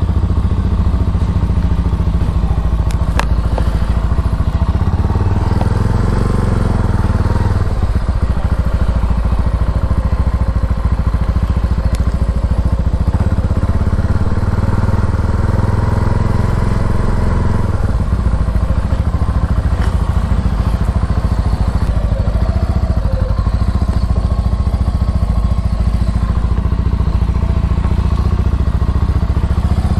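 Herald Classic 400 motorcycle engine running continuously, its note shifting about eight seconds in and again about eighteen seconds in.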